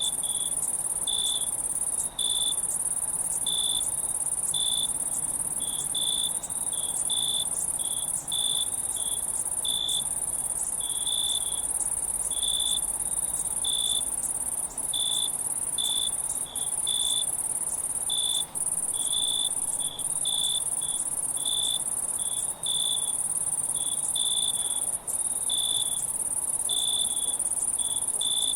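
Insect chorus of crickets: a continuous high-pitched trill that drops out briefly now and then, over shorter, lower chirps repeating unevenly about once or twice a second.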